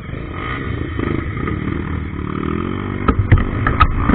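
Trail motorcycle engine running and revving, its pitch rising in the middle, with several sharp knocks in the last second.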